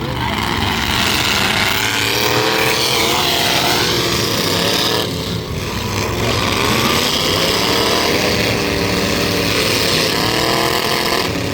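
Several demolition derby trucks' engines running hard and revving, their pitches rising and falling over one another.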